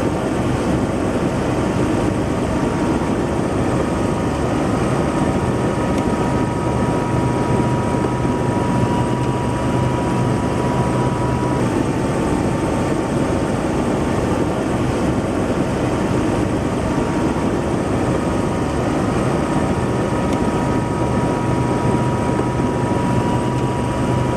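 Helicopter rotor and engine running steadily, a loud unbroken drone with a steady high whine.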